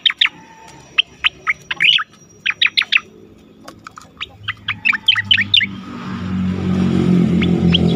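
Cucak koreng singing, rapid runs of sharp, down-slurred whistled chirps in quick bursts. From about six seconds in, a low rumbling noise swells up underneath while a few more chirps sound.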